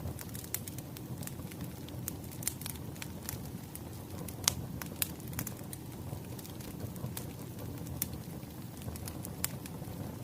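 Firewood fire crackling: a steady low rumble of flames with scattered sharp pops, the loudest about four and a half seconds in.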